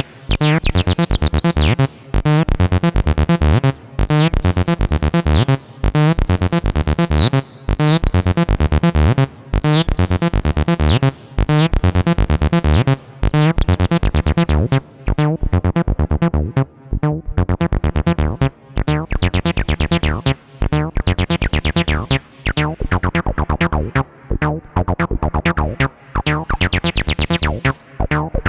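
Behringer TD-3-MO analog bass synthesizer playing a fast, repeating acid bassline sequence of short pitched notes, its filter opening to a brighter tone between about four and eleven seconds in, darkening, then brightening again near the end.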